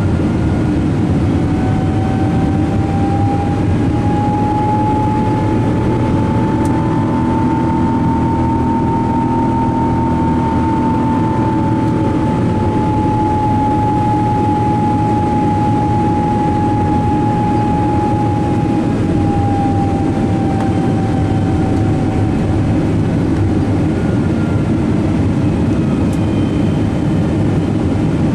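Steady loud cabin noise inside a Boeing 777-200: the engines' drone and the rush of air, with a faint tone that slowly rises, then falls back.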